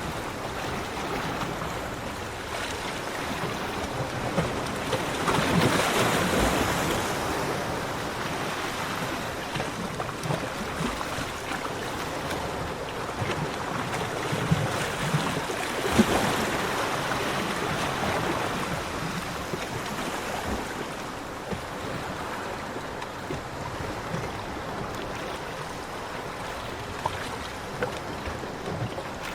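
Ocean waves washing onto a beach in a steady rush of surf, swelling into louder breaks about six seconds in and again near the middle.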